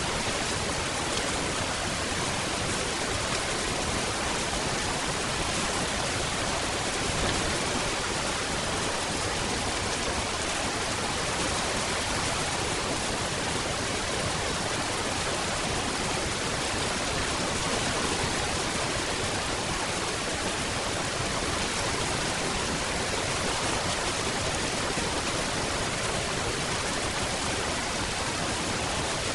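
Steady rain falling, an even, unbroken hiss with no thunder or separate events.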